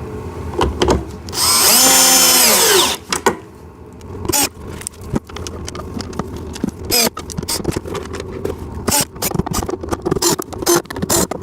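Cordless drill-driver driving a screw: its motor whine rises and then falls over about a second and a half. Scattered clicks and knocks follow as parts and screws are handled.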